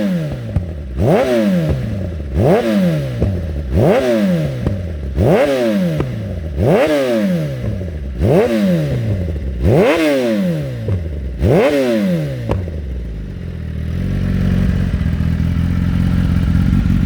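Kawasaki ZX-10 inline-four through an HP Racing HP6 slip-on exhaust with no catalytic converter, blipped about eight times in a row, each rev rising quickly and dropping straight back. It then settles to a steady idle for the last few seconds.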